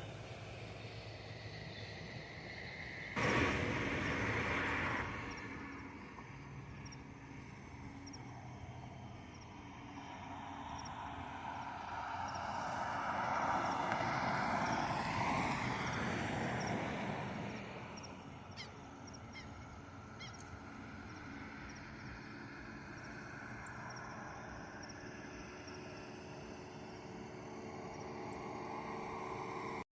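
Outdoor noise with a vehicle passing, swelling and fading about ten to seventeen seconds in. A short loud burst of noise starts suddenly about three seconds in and cuts off about two seconds later.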